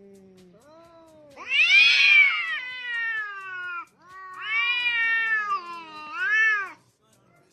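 Cat meowing in two long, drawn-out, wavering calls, the second ending in a short rising-and-falling meow.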